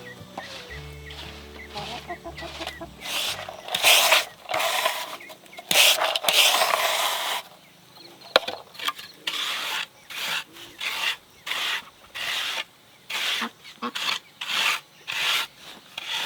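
Wood being worked with a hand tool, such as a saw or rasp: a stretch of louder scraping, then steady rasping strokes, about two a second, through the second half.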